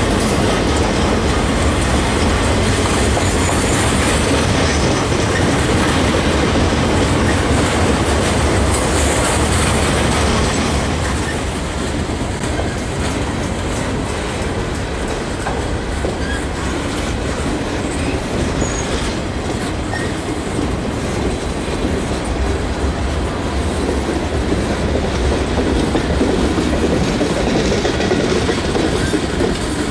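Freight train cars rolling past close by, a steady rumble of steel wheels on the rails with clickety-clack over the rail joints. About eleven seconds in the sound drops a little as a string of tank cars and covered hoppers passes instead of boxcars.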